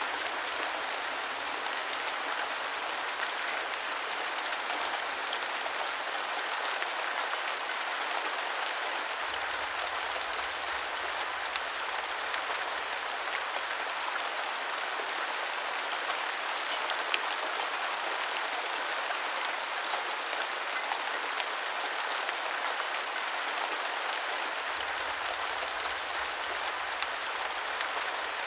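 Steady rain falling, an even hiss of many drops with fine pattering, and a couple of louder single drops in the second half.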